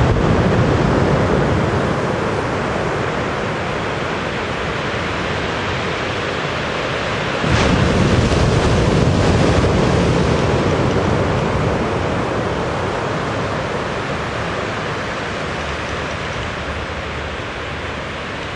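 Loud, steady rushing noise with no bird call in it. It swells suddenly about seven and a half seconds in, then slowly eases off.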